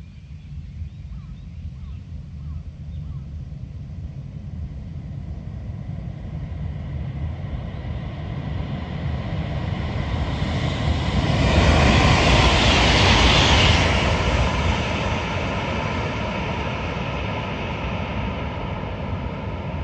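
Shinkansen high-speed train passing by: a rushing rumble that builds steadily, is loudest about twelve seconds in, then slowly fades away.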